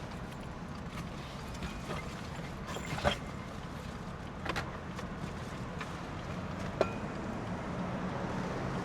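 BMW F80 M3's twin-turbo straight-six idling steadily while the car sits waiting, a low hum with a few scattered light clicks.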